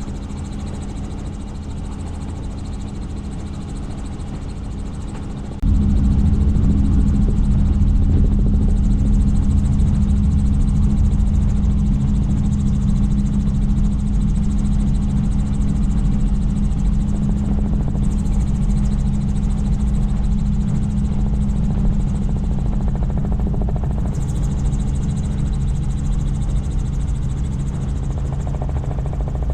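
Helicopter in flight, its turbine and rotor running with a steady drone, heard from on board. About six seconds in it suddenly becomes much louder and stays that way.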